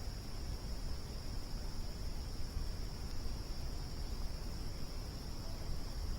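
Crickets chirring steadily in one high, even trill, over a campfire burning with a low, uneven crackle and rumble.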